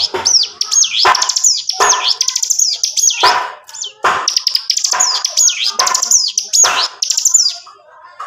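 Bar-winged prinia (ciblek gunung) singing a fast, unbroken run of high chirps and whistles, with a harsh down-sweeping phrase repeated about once a second. This nonstop, drill-like delivery is what bird keepers call 'gacor ngebren', the full song used as a tutor for other birds.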